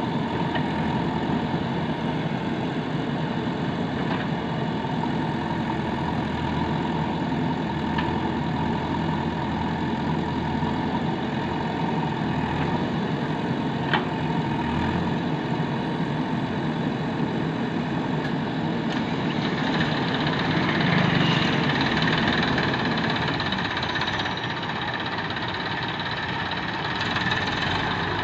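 Diesel engine of heavy machinery running steadily, growing louder and harsher for a few seconds about twenty seconds in before settling again.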